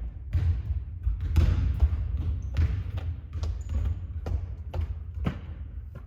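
Basketball bouncing on a hard court: a string of separate thuds at uneven spacing, with a low steady rumble underneath.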